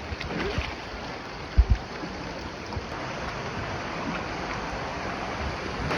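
River water rushing and splashing around a bamboo raft, with two short low thumps about one and a half seconds in.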